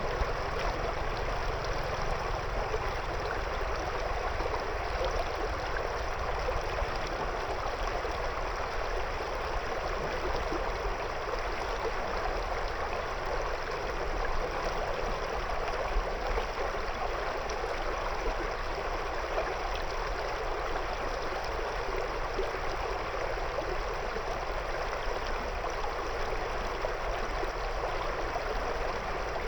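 River water flowing and splashing around stones, a steady rushing babble with no pauses or changes.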